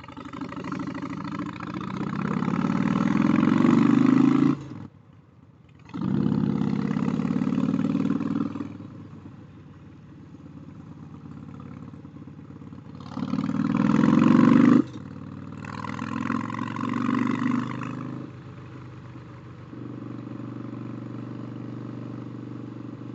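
Harley-Davidson motorcycle with a stage 1 upgrade, its engine pulling hard with rising pitch. It cuts off briefly at a gear change about five seconds in and again about fifteen seconds in, with lower, steadier running in between.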